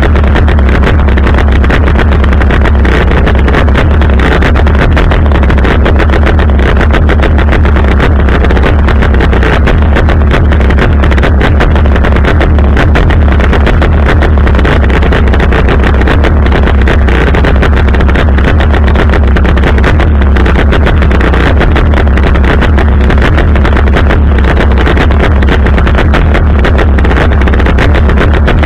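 Chainsaw on a pole extension running steadily and very loud, close to the microphone, with no change in its note.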